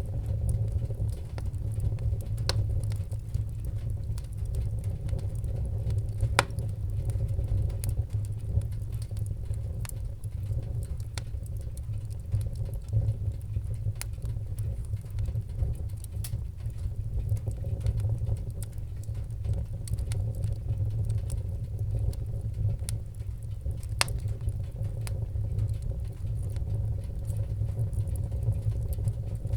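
Wood fire in a fireplace crackling, with frequent sharp pops and snaps scattered over a steady low rumble of the flames.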